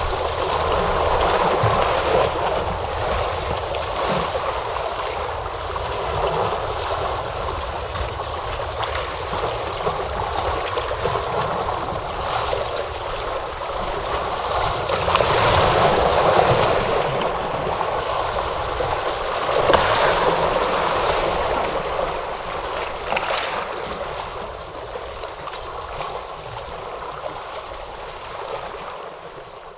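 Ocean waves breaking and washing in, a steady rush that swells with the bigger surges and fades away near the end.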